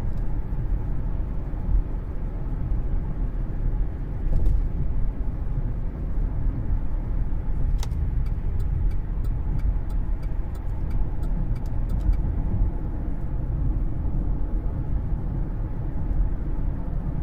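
Steady low road and drivetrain rumble inside the cabin of a 2013 Cadillac CTS under way, with a few faint light clicks through the middle.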